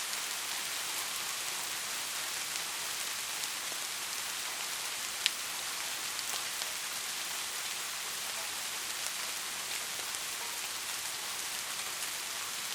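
Steady rain falling, an even hiss with scattered ticks of individual drops, and one sharper drop click about five seconds in.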